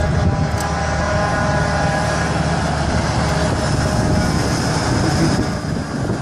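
Heavy diesel truck engine running steadily as a convoy truck drives past.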